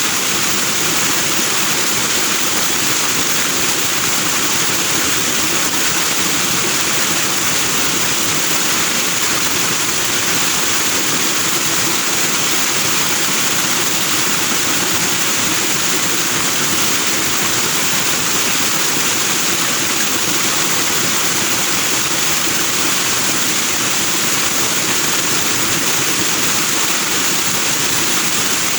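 Forest stream rushing over rocks, foaming white water making a steady, unbroken rush.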